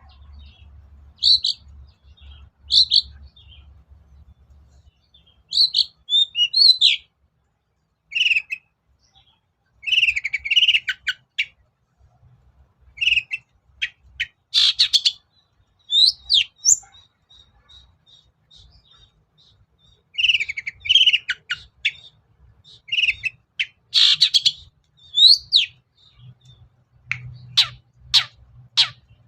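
Long-tailed shrike singing in short bursts of chattering, varied phrases separated by brief pauses, with a fast run of harsh sweeping notes near the end.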